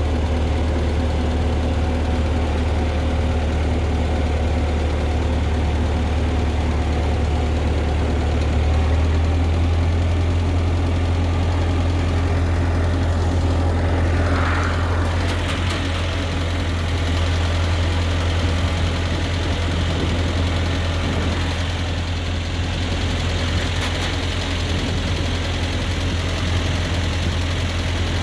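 Ford 8N tractor's four-cylinder engine running steadily while the tractor drives along at a slow, even pace, a deep, even drone.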